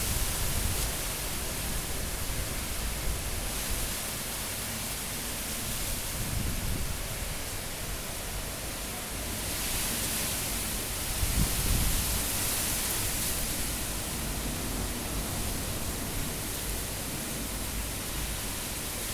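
Cyclone-force wind blowing steadily, a rushing hiss that swells briefly about halfway through.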